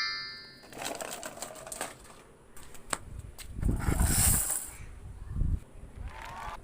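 Plastic toy vehicles being handled: irregular clicking and clattering, with dull thumps about halfway through and again a little later.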